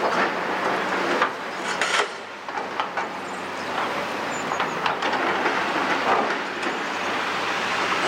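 Excavator handling demolition rubble: a steady clatter and scraping of broken debris, with sharp knocks every second or so.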